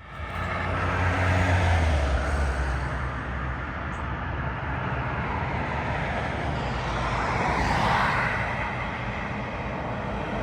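Engine of a Mack MRU front-loader garbage truck running with a deep, low hum, strongest in the first few seconds; the sound swells briefly about eight seconds in.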